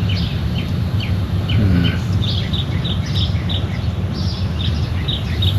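Engine of a 20 kW Generac standby generator running with a steady low rumble, while birds chirp again and again over it.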